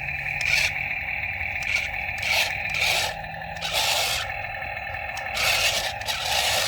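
Toy RC excavator's small electric motors whining steadily as the arm and bucket are worked, with repeated scraping noises.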